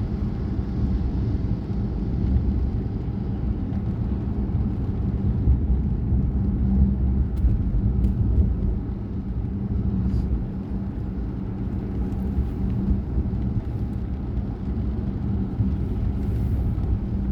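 Steady low rumble of a car being driven, heard from inside the cabin, with a constant hum of engine and road noise.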